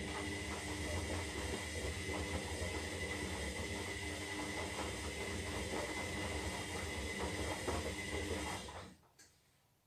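Zanussi Lindo 300 washing machine running mid-wash on its synthetic cycle: a steady hum with a high whine over it, which stops about nine seconds in, followed by a single faint click.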